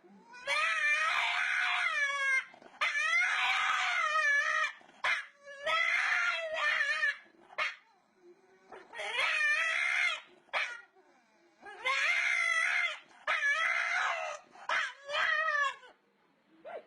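A dog howling: about seven long, wavering calls, each one to two seconds long, with short pauses between them.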